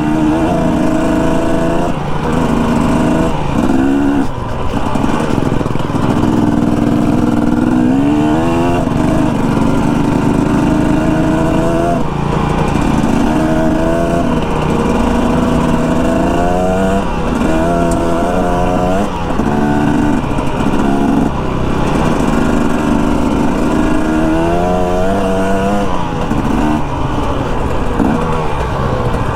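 Dirt bike engine running under way, its pitch climbing and falling again about eight times as the rider works the throttle and shifts gears.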